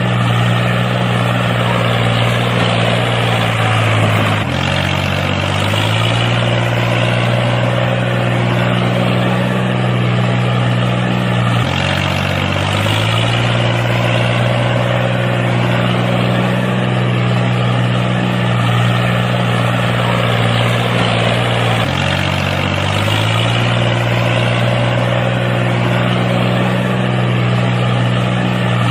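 Homemade mini tractor's engine running steadily, its pitch dipping and recovering three times as it comes under load.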